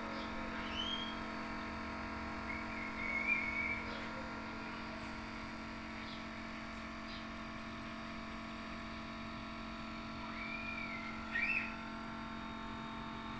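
A steady electrical hum of several tones, with a few short rising-and-falling chirps: two near the start, and a louder pair about eleven seconds in.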